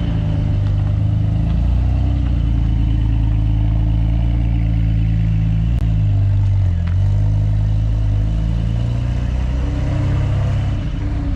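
Car engine running while the car is driven, a loud low drone that dips in pitch about six to seven seconds in and again near the end. It is most likely the Mitsubishi Lancer Evolution X's turbocharged four-cylinder.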